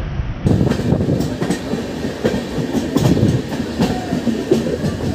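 Passenger train running along the track, heard from aboard: wheels clattering over the rails with rattling from the coach. The sound cuts in about half a second in.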